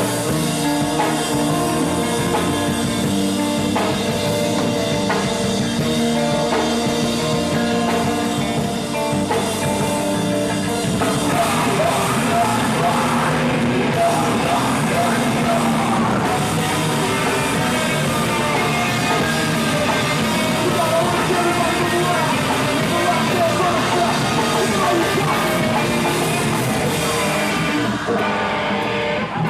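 Live rock band playing loud and steady, drum kit and guitars, with a singer's voice more prominent from about eleven seconds in.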